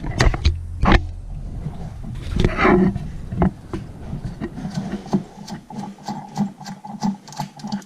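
Plastic coupling nut of an old toilet supply line being unscrewed by hand: rubbing and scraping with a string of small clicks.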